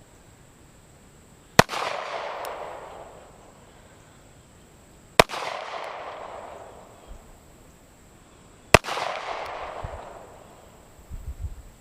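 Three handgun shots about three and a half seconds apart, each a sharp crack followed by a long echo that rolls away over about a second and a half.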